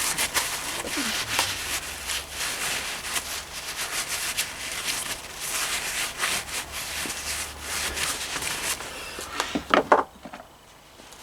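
Continuous rubbing and scraping of hands working over metal engine parts. A few sharp clicks come about nine and a half seconds in, and then it goes quieter.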